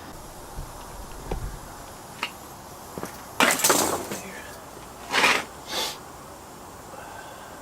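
Handling of a chainsaw being tipped on its side: a few light clicks, then three short scraping, rattling bursts, the loudest about three and a half seconds in and two more around five seconds in.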